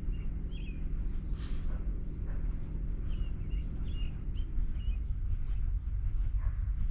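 A San Joaquin Valley Railroad train passing: a steady low rumble of wheels on the track, the clickety-clack, under the drone of a diesel locomotive engine that fades about four and a half seconds in. Small birds chirp over it.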